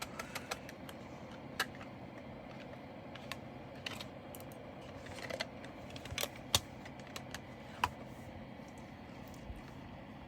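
Irregular light clicks and small rattles of plastic drill containers and bags of resin diamond-painting drills being handled and sorted, with a few sharper clicks near the middle and later on.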